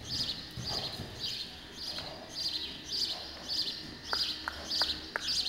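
A small bird chirping steadily and evenly, about two short high chirps a second. The hooves of a horse trotting on arena sand thud dully in the first second or so, and a few sharp clicks follow near the end.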